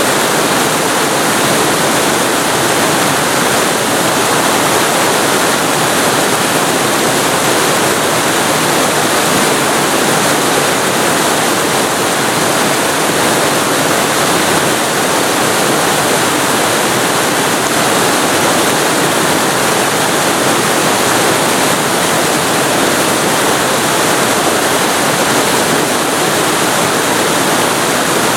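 Waterfall recorded very close to the falling water: a loud, steady rushing roar with no breaks or changes.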